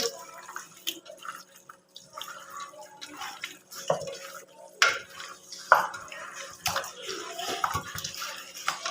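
Hands mixing spice paste into raw chicken pieces in a bowl: irregular wet squelches and small clicks, with a few sharper knocks in the middle.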